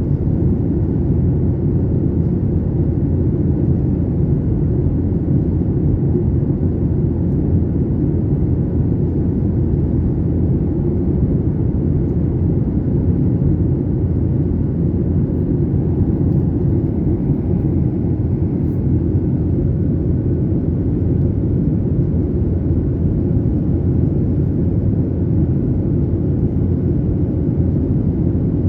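Airliner cabin noise: the steady low rumble of the jet engines and airflow heard from inside the passenger cabin.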